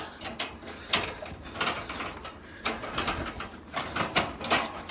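Lions and dogs play-fighting: an irregular run of clicks, scrapes and scuffles.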